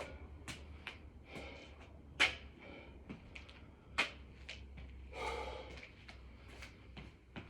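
Hard breathing and short thuds of hands and feet hitting the floor during six-count burpees. The two sharpest knocks come about 2 and 4 seconds in.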